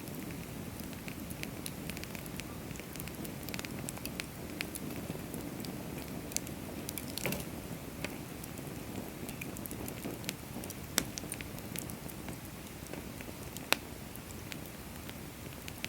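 Firewood burning in a fire stand: a steady low rush of flame with scattered crackles and sharp pops of the wood, the loudest pops about 11 and 14 seconds in.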